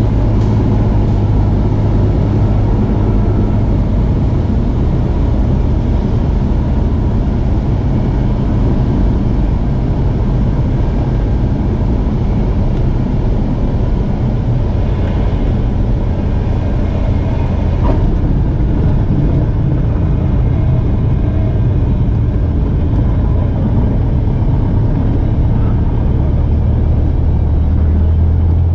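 Cessna 172 Skyhawk's piston engine and propeller droning steadily in the cockpit on final approach to land; near the end the drone drops to a lower note.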